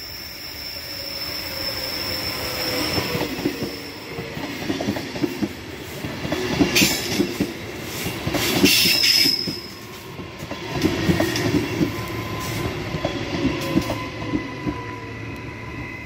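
Queensland Rail electric passenger train rolling slowly past on a curve into the station, its wheels clicking over the rail joints with a high steel-wheel squeal, stronger at the start and again about nine seconds in. Near the end a steady whine joins in as it slows alongside the platform.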